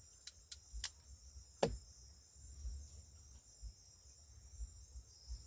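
Night insects, crickets, chirring steadily in a high band, with a few sharp clicks in the first second and a half, the loudest about a second and a half in.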